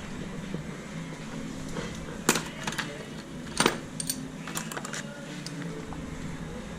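Hand tools and metal parts clinking and clanking during engine removal work: a handful of sharp metallic clicks, two louder clanks a little over a second apart, over a steady low background hum.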